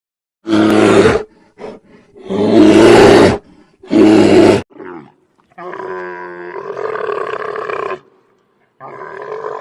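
Lion roaring: three loud, short roars in the first five seconds, then a longer, quieter drawn-out call and another beginning near the end.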